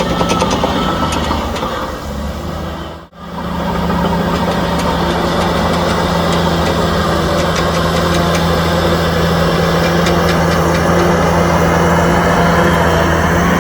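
Diesel engine of heavy earthmoving equipment running steadily at a constant pitch, cutting out for an instant about three seconds in before carrying on.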